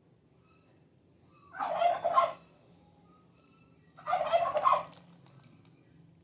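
Three short rattling bird calls, each under a second, spaced about two seconds apart.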